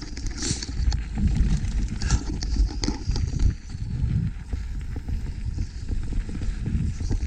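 Mountain bike riding down a rough trail: a steady low rumble from the ride, with many quick, irregular knocks and rattles from the bike going over the dirt and rocks.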